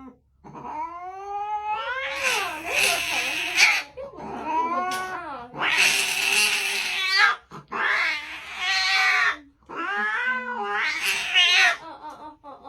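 A kitten yowling with about four long, drawn-out meows, each gliding up and then wavering, one after another. These are distress calls from a kitten being held against its will.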